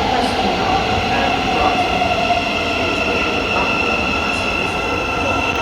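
Thameslink Class 700 electric train in the underground platform, its motor whine falling slowly in pitch as it slows, under a steady high-pitched squeal.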